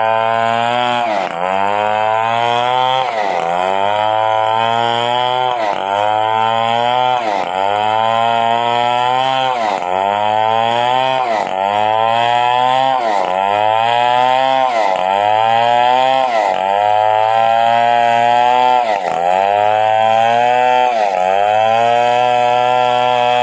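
Stihl 070 two-stroke chainsaw running at high speed while ripping a coconut palm trunk lengthwise into boards. Its engine pitch drops under load and recovers about every two seconds.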